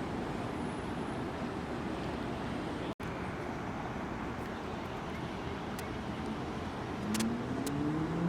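Steady rumbling outdoor noise with wind on the microphone, broken by a brief dropout about three seconds in. Near the end two rising tones come in, like an engine speeding up.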